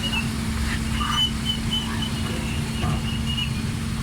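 Steady low engine rumble with a constant hum, and faint short high-pitched chirps or whistle tones coming and going over it.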